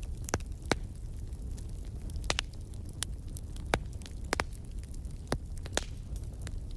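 Wood fire crackling in a fireplace: sharp pops at irregular intervals over a steady low rumble.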